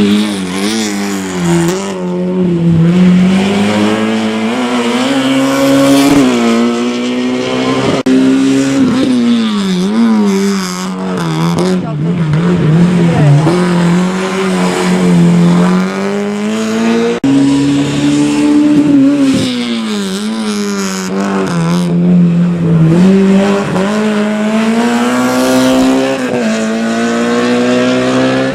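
Rally car engine driven hard, its pitch rising and falling again and again as the throttle goes on and off and the gears change, with tyres squealing at times.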